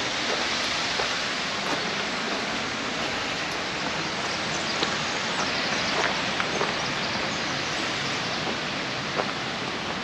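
Steady, dense rush of a fast mountain creek flowing through a deep gorge, with a few faint ticks scattered through it.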